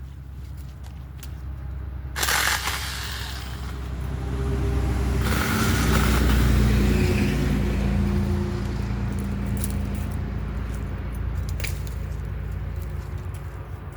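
A road vehicle passing by, its engine and tyre noise building to a peak about halfway through and then fading away, with a short sharp rush of noise about two seconds in.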